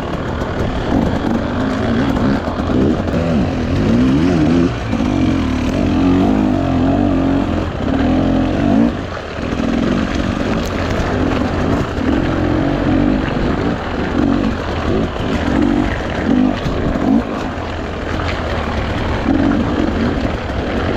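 Off-road vehicle engine working over a rough forest track, its revs rising and falling in repeated surges as the throttle is worked.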